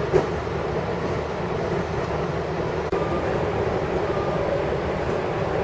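Long Island Rail Road train running at speed, heard from aboard: a steady rumble of wheels on the track, with one sharp clack a moment in.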